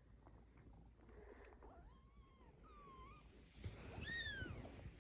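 Kittens mewing three times, thin and high, with the last mew the loudest. They are squabbling over places at their mother's teats while nursing.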